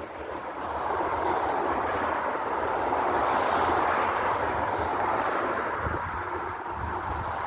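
Road and traffic noise, an even rush that swells over the first few seconds and eases a little near the end, with the low rumble of wind buffeting the microphone.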